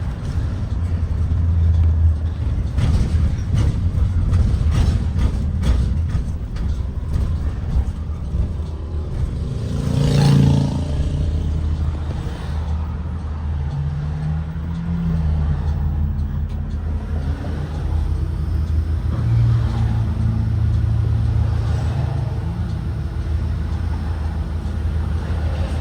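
Blue Bird Vision propane school bus driving, its engine a steady low drone with rattling in the first few seconds. A louder burst comes about ten seconds in, and later the engine note rises and falls a few times as it speeds up and eases off.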